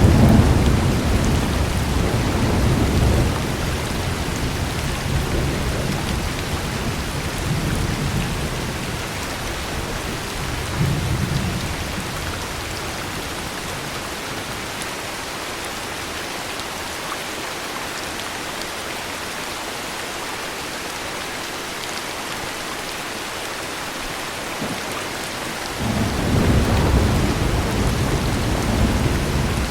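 Steady heavy rain with rolling thunder. The thunder rumbles at the start, dies away partway through, and swells again near the end.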